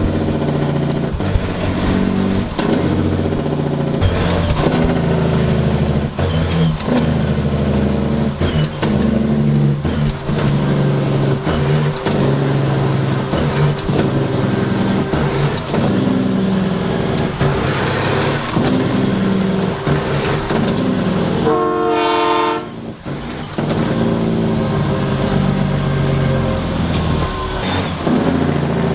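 Semi-truck diesel engines running and revving, their pitch rising and falling. About three quarters of the way through, a horn sounds once for about a second and a half.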